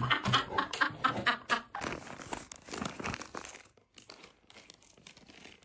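Crinkling, rustling sound, like plastic or paper being handled, crackling for the first few seconds and then thinning out to faint scattered clicks. It opens with a quick run of short pulsing voice sounds, like laughter.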